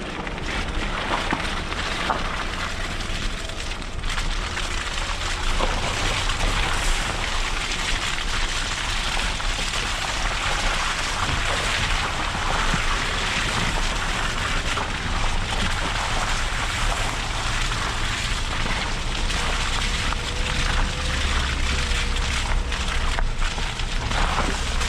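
2013 Suzuki Jimny with a 1.3-litre inline-four driving off-road on an unsurfaced track: a steady low rumble of engine and tyres under a constant hiss of the tyres on the loose surface.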